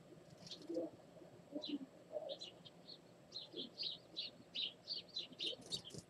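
Small songbirds chirping: short high chirps, scattered at first, then from about three seconds in a quick run of them at about four a second.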